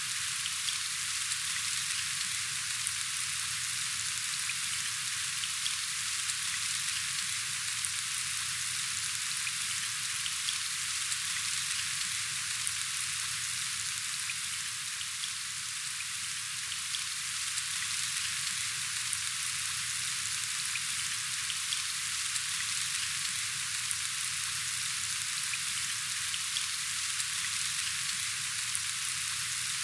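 Steady rain falling, an even hiss with scattered small ticks of individual drops.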